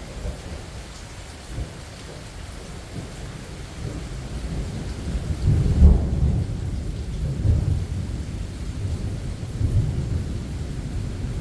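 Thunder rumbling under steady rain. The rumble swells loudest about halfway through and rolls on in smaller swells after.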